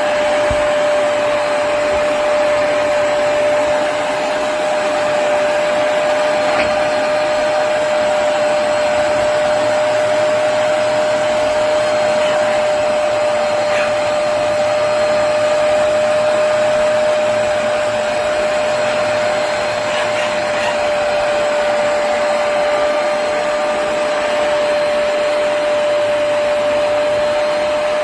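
Hoover PowerDash Pet+ compact carpet cleaner running steadily: a constant motor whine over a rushing hiss.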